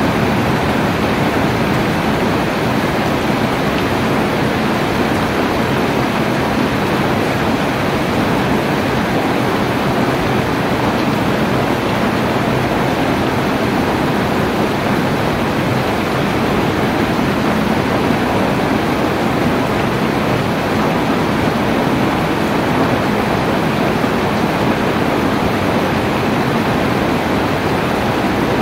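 Steady, heavy rainfall: a dense, even hiss that does not let up.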